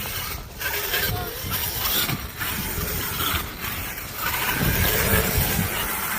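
Traxxas X-Maxx electric RC monster truck driving, its brushless motor and gear drivetrain whirring, with a faint whine in the second half.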